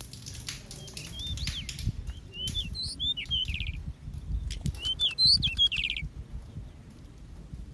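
Small aviary finches chirping in short curved notes with a couple of quick trills, mixed with wing flutters and light clicks, over a low rumble. The chirping stops about six seconds in.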